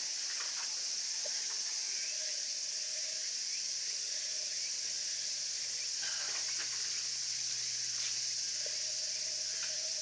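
Summer insects shrilling steadily in a continuous high buzz, with a faint low hum underneath.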